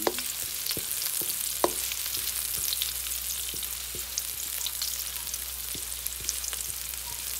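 Chopped garlic and red onion sizzling in hot oil as they are sautéed to brown, with a wooden spatula scraping and knocking against the pan as it stirs them now and then.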